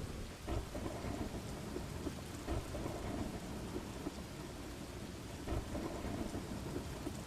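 Steady rain with thunder rumbling low underneath, with a few heavier low thumps about half a second, two and a half and five and a half seconds in.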